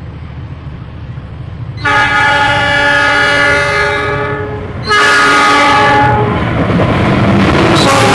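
Diesel locomotive horn of an express passenger train running through the station: one long blast of about three seconds, then a shorter second blast. Under and after the second blast, the loud rumble and clatter of the passing train.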